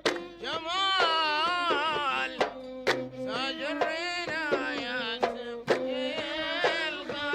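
Instrumental interlude of a Bahraini sawt played by a Gulf music ensemble: bowed strings carry a winding, ornamented melody in unison over sharp, irregular drum strikes.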